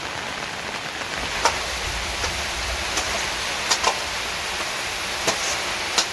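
Steady rain hissing, with a few sharp drops landing close by.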